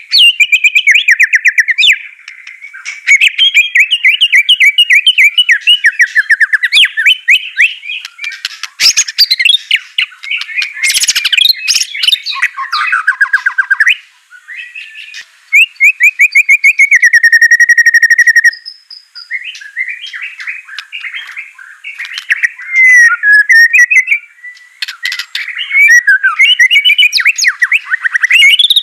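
White-rumped shama (murai batu) in full, non-stop 'gacor' song: a dense stream of rapid trills, rattles and whistled phrases, with a long held whistle about seventeen seconds in.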